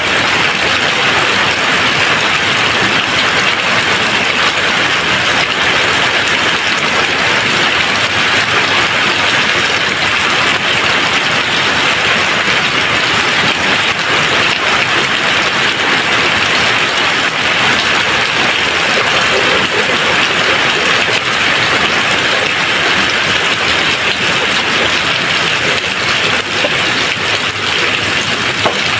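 Steady rain falling, a dense even patter without thunder.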